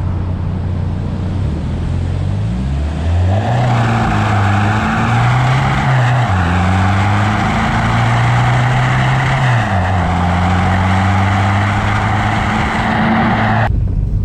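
SEAT Leon FR's engine pulling under way: its pitch climbs, dips briefly about six seconds in and drops again near ten seconds, as at gear changes, then holds steady. Steady tyre and road hiss runs over it and stops sharply near the end.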